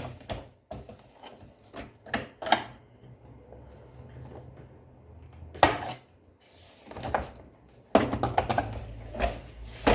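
Scattered knocks, clicks and clatter of vacuum cleaner parts and tools being handled during a repair, with a low hum coming in near the end.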